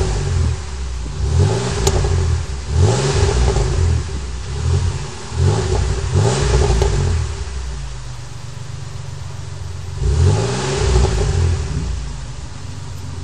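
1997 Chevrolet Monte Carlo's 3.1 V6 with a Dynomax Super Turbo muffler, K&N cone filter and resonator delete, blipped from idle in a series of short revs that rise and fall back, with a steady idle in between and near the end.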